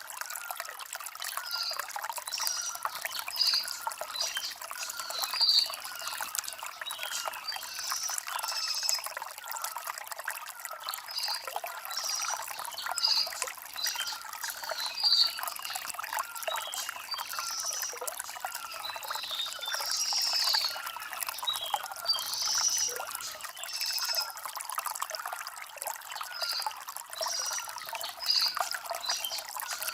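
Stream water trickling and splashing over river stones, with short chirps repeating throughout, high and bright.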